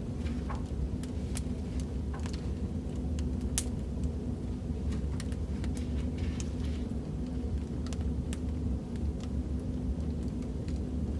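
Recorded wood fire burning in a fireplace: a steady low rumble of flames with scattered sharp crackles and pops at irregular intervals.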